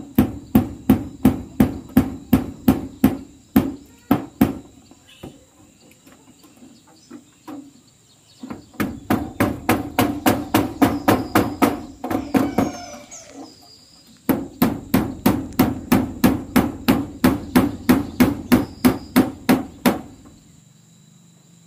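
Hammer driving nails into zinc roofing sheets: quick, even blows about three a second, in three runs with short pauses between.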